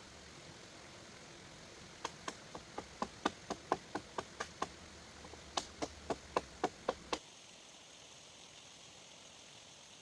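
Two quick runs of sharp hammer blows, about four a second, with a short pause between them.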